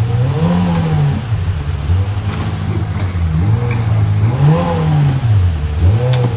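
Side-by-side UTV engine working under throttle, the revs swelling and dropping several times as it picks its way over rough trail, with a few light knocks.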